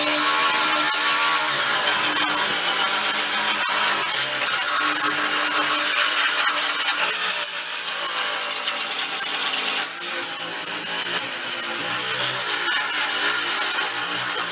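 A power sander fitted with an adhesive-backed sticky-grip disc runs continuously, sanding body filler and paint off a car's steel body panel. Its pitch wavers as it bears on the metal, and it dips briefly twice, about halfway through and a few seconds later.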